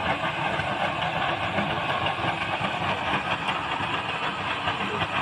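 Used-engine-oil mini stove burning, giving off a steady rushing, rumbling noise.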